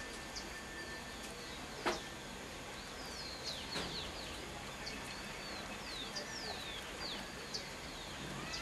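Birds calling: many short, quickly falling whistled notes, clustered in the second half, with a couple of sharp clicks about two and four seconds in, over a steady background hiss.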